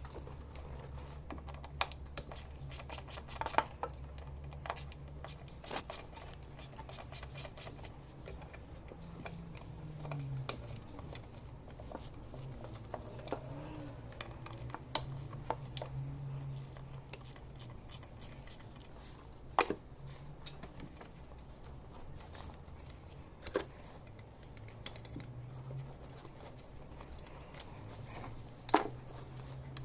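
Irregular metallic clicks, taps and light knocks of hand tools and parts being worked while removing a throttle body from an engine, over a steady low hum, with a few sharper clicks standing out.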